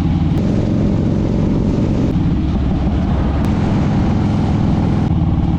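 Harley-Davidson touring motorcycle's V-twin engine running steadily and loudly.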